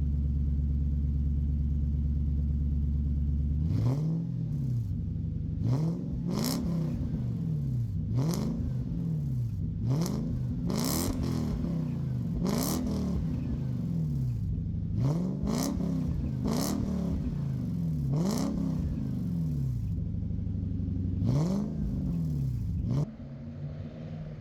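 Lexus GS 400's V8 running through a modified exhaust: it idles steadily for about four seconds, then is blipped about ten times, each rev rising and falling quickly. The engine sound drops away abruptly about a second before the end.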